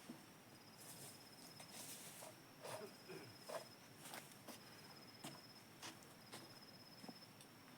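Faint, high trilling insect call in one-second bursts at a steady pitch, repeating four times, with scattered faint clicks and knocks.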